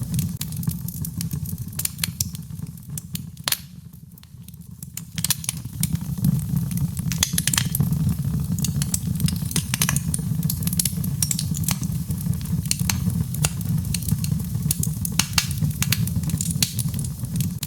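Birchwood fire burning in a fireplace, crackling with frequent sharp pops and snaps over a steady low rumble of the flames. The crackling briefly eases around four seconds in, then picks up again.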